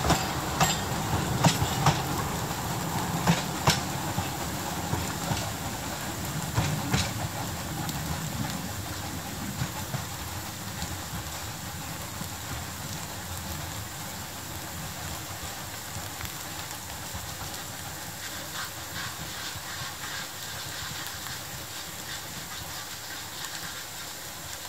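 Narrow-gauge passenger coaches of the Talyllyn Railway rolling past, wheels clicking sharply over the rail joints for the first several seconds, then the rumble of the train fading steadily as it draws away up the line.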